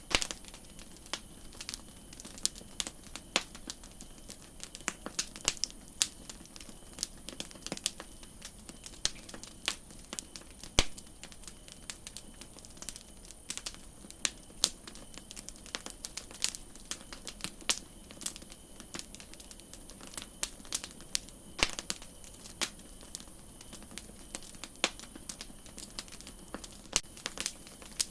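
Campfire crackling: irregular sharp pops and snaps of burning wood over a steady faint hiss.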